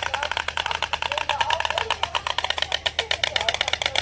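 White stork clattering its bill: a fast, loud, wooden rattle of about ten or more snaps a second that runs on without a break.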